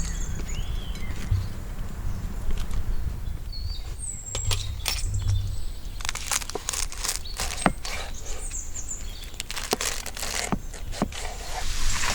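Wild birds chirping and calling in short phrases over a steady low rumble. Several sharp clicks come in the second half.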